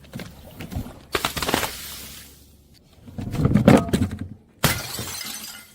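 Objects being crushed, crunching and crackling in several separate bouts, with a sudden sharp crack about four and a half seconds in that fades out over a second.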